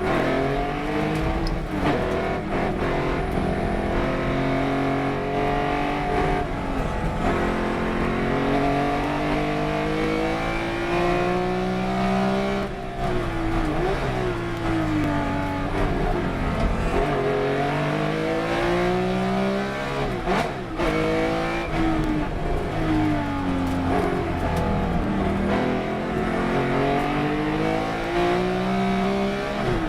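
Race car engine under hard acceleration, its pitch climbing over several seconds at a time. The pitch falls away sharply a few times as the car brakes and downshifts, then climbs again.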